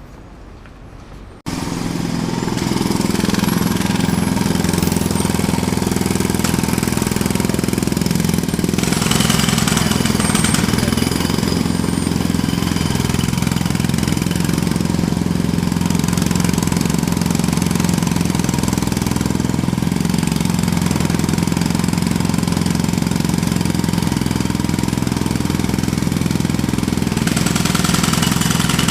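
A jackhammer starts abruptly about a second and a half in and then hammers steadily and loudly without a break.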